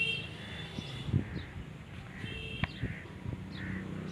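Slow-running black oil (diesel) engine, rated 22 HP at 300 RPM, running with a low rumble and irregular thuds, while birds call and chirp over it several times.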